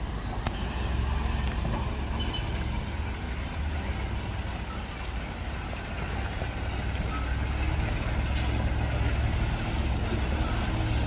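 Heavy vehicle engine running with a steady low rumble, easing a little midway and building again near the end.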